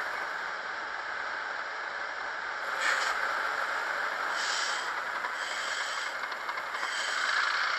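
Sound decoder in an N gauge Class 37 model locomotive playing diesel engine sound through its small speaker, a steady running note with several short hissing surges.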